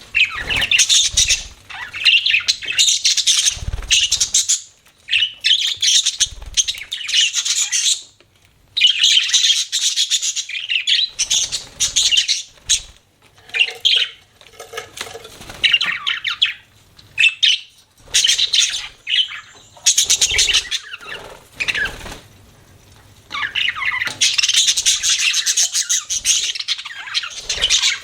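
Budgerigars chattering and chirping in long bouts of fast, high warbling, broken by short pauses.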